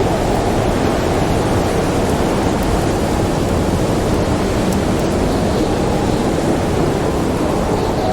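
Steady, dense rushing noise of a storm soundscape: wind with rain, heaviest in the low range, with a few faint high ticks.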